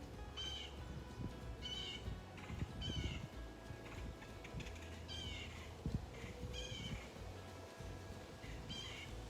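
A bird calling outdoors, giving a short, high, downward-slurred call over and over, about once a second.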